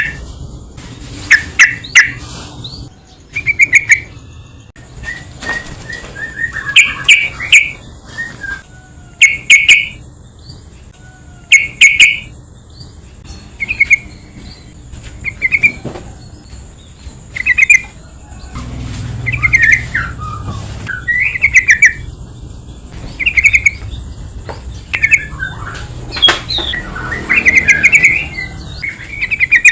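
Yellow-vented bulbul (trucukan) calling over and over in short, bubbly chattering phrases every second or two, with some sharp clicks mixed in. This is a lure call used to make other bulbuls answer.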